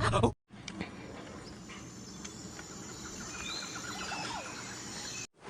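Outdoor nature ambience: a steady faint hiss with a few scattered bird chirps, a short rapid trill about three seconds in and a falling call just after it.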